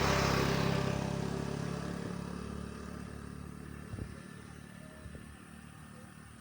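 A motor vehicle's engine running, loudest at the start and fading steadily as it moves away.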